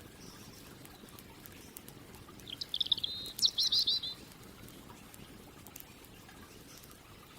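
A songbird sings one short phrase of rapid high chirping notes, lasting about a second and a half, a little past two seconds in. Faint crackling of a campfire runs underneath as scattered light clicks.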